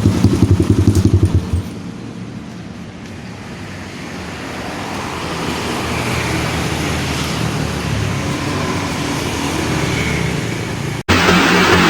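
Single-cylinder dirt-bike engine with an aftermarket racing exhaust running with a fast, pulsing exhaust note, stopping about a second and a half in. A road vehicle's noise then swells slowly, and a louder noise comes in abruptly near the end.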